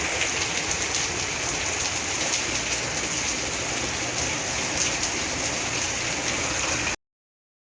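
Heavy rain pouring steadily, a dense hiss flecked with the patter of drops hitting surfaces. It cuts off abruptly near the end.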